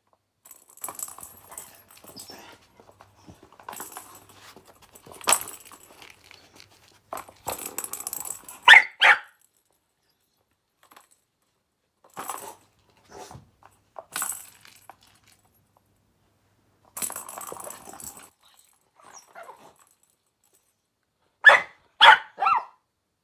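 A dog playing with a cat toy: intermittent jingling, rattling and scuffling. Two short barks come about 9 s in and three more near the end.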